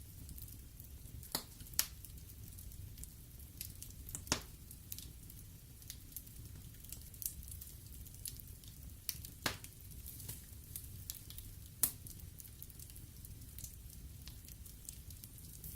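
Wood fire burning in a fireplace: a low steady rumble of the flames with irregular sharp crackles and pops, a few louder snaps among them.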